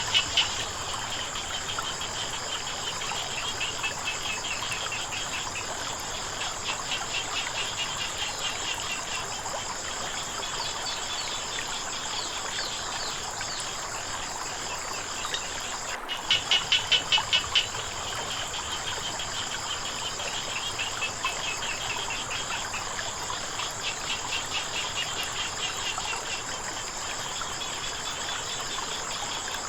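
Night chorus of crickets and frogs: a steady high trill of insects with frogs calling in rapid pulsed series, swelling into a loud run of calls about 16 seconds in. A faint wash of flowing water lies underneath.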